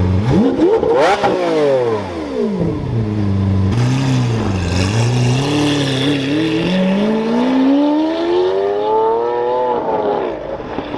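Lamborghini engine revved sharply once about a second in, then pulling away with a long rising pitch that falls away near the end.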